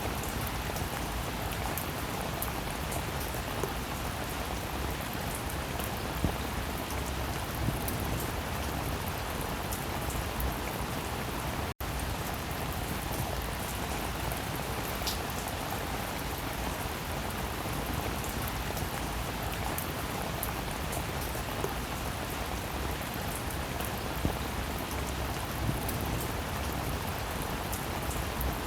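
Steady rainfall, an even hiss with scattered drop ticks, broken by a split-second gap about twelve seconds in.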